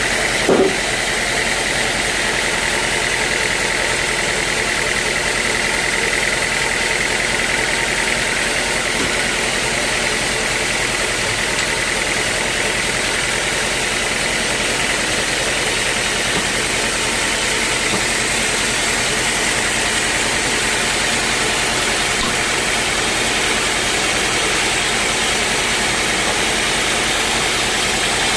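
Sawmill machinery running steadily, a constant mechanical noise with a thin high whine running through it. About half a second in there is one brief, louder sound.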